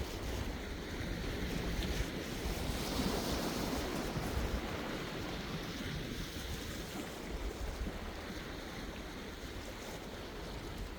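Sea waves washing and breaking, one swelling louder about three seconds in, with wind rumbling on the microphone.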